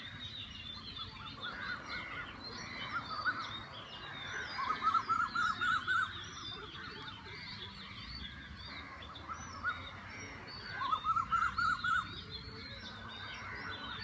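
Many birds calling together, with high chirps and whistles throughout. Twice, about five and about eleven seconds in, a louder bird gives a fast run of repeated rising notes lasting about a second and a half.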